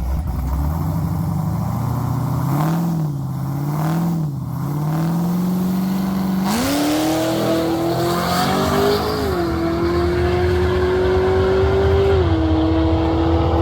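Drag-racing car engine revved up and down twice at low revs, then brought up sharply to high revs about six seconds in and held there, climbing a little more and then easing back slightly near the end.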